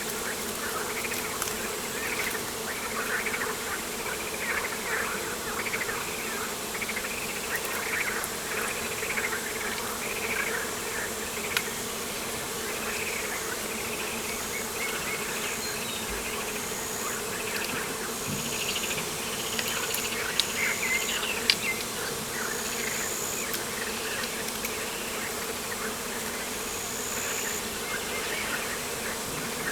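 Outdoor nature ambience with a steady hum under dense, rapidly repeated chirps and short high calls from birds and insects. A few sharp clicks come about two-thirds of the way through.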